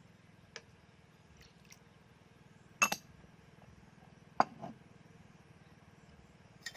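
Cooking utensils clinking against cookware: a handful of separate sharp clinks, the loudest about three and four and a half seconds in.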